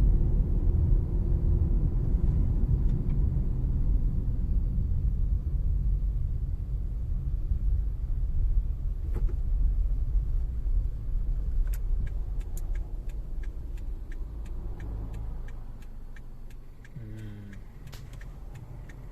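Road rumble of a car in motion, low and steady, growing quieter toward the end as the car slows. In the second half, light ticks repeat at a steady pace of about three a second, and a brief falling tone comes near the end.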